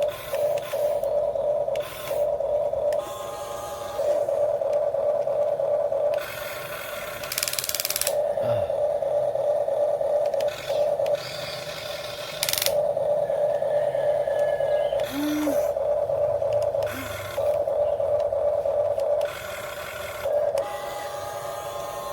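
Small electric motors of a radio-controlled excavator and dump truck model, a steady whine broken every few seconds by louder, harsher bursts as other motors start and stop.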